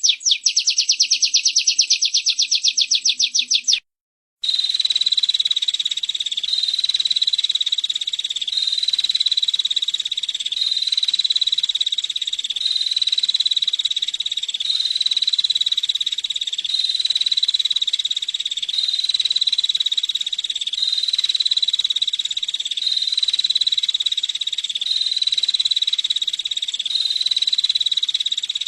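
Small songbird trilling fast and continuously, a high chittering typical of a female prenjak (prinia) call track. A very rapid trill cuts out briefly just before four seconds in, then resumes as a steadier buzzing trill whose pattern repeats about every second and a half, like a looped recording.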